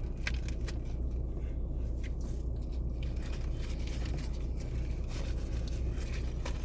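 Steady low hum inside a car, with faint scattered rustles and clicks of a sandwich wrapper being handled while eating.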